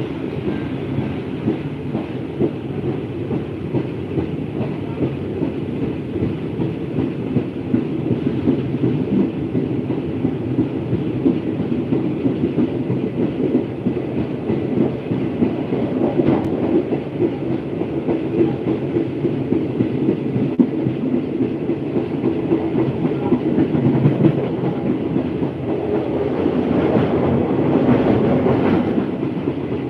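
Passenger train running along the track, heard from aboard: a steady rumble with wheels clattering over the rails, swelling louder for a few seconds near the end.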